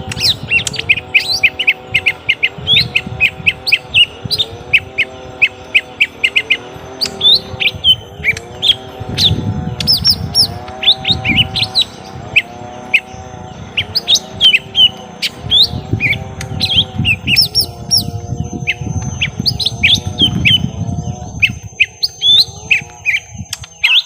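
Young lesser green leafbirds (cucak ijo mini) giving rapid, sharp chirping fighting calls, several chirps a second without a break. Under them a lower call repeats about once a second.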